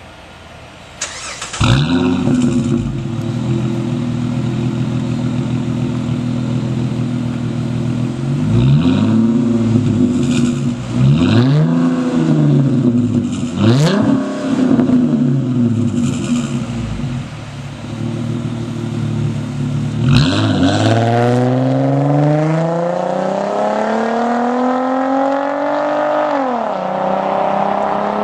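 Dodge Challenger's 3.5-litre V6 through an SLP LoudMouth aftermarket exhaust, starting up about two seconds in and idling steadily. It is blipped four times, each rev rising and falling quickly. Near the end it accelerates in a long climb in pitch, drops briefly as at a gear change, then climbs again.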